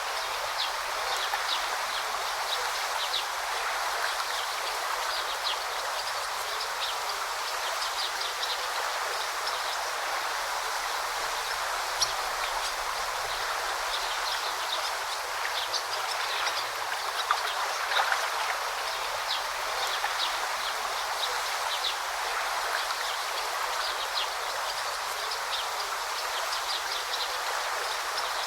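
A river flowing steadily over stones, with short high bird chirps scattered through it and a few sharper splash-like ticks.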